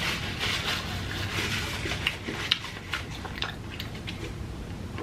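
A person chewing a mouthful of fast food close to the microphone, with a run of wet, sharp mouth clicks and smacks.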